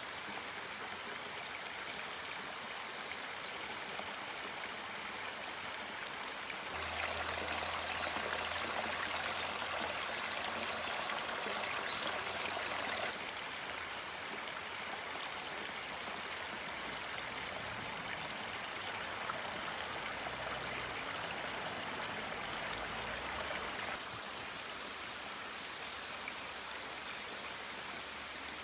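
Steady rushing noise of flowing water, which jumps louder about seven seconds in and drops back in abrupt steps around thirteen and twenty-four seconds in.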